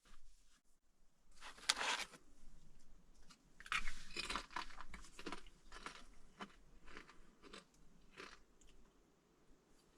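Irregular crunching and crinkling with small sharp clicks, in bursts that thin out near the end.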